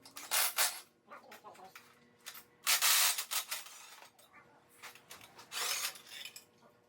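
Three short bursts of hissing, scraping noise, each under a second long, with faint clicks and taps between them.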